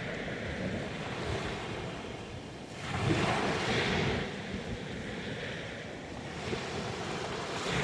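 Sea waves washing onto a stony shore, with one wave breaking louder about three seconds in.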